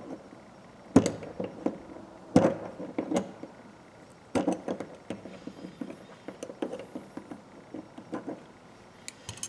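Irregular small metallic clicks, taps and knocks as the parts of a 1/4-inch ratchet are handled and pried at during disassembly.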